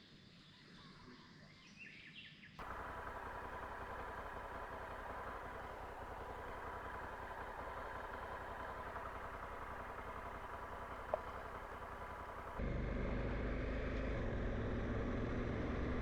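Faint bird chirps, then a sudden cut to steady outdoor vehicle and road noise with a thin steady tone and a single click. Near the end another cut brings in a louder, lower vehicle rumble.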